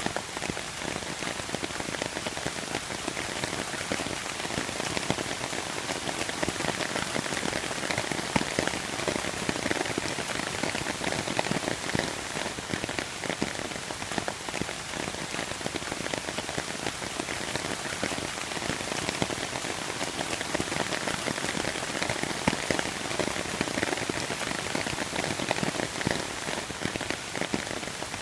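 Steady rain falling and pattering on hard surfaces, a dense even patter of many drops.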